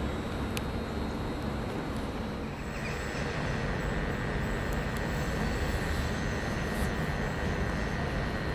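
Rail vehicle running, a steady rumble, with a steady high tone joining about a third of the way in.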